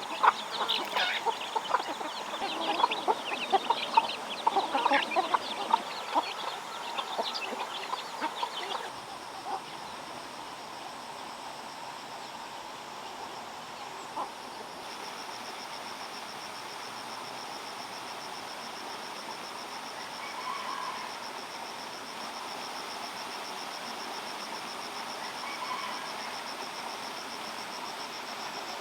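Chickens clucking and calling in quick, overlapping bursts for about the first nine seconds. Then the sound changes to a steady rush of flowing water, with a high, steady insect buzz joining about halfway through.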